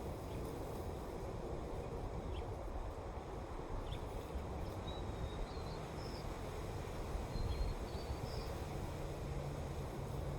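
Steady wind, a low rumbling rush with no pauses, with a few faint high bird chirps about halfway through.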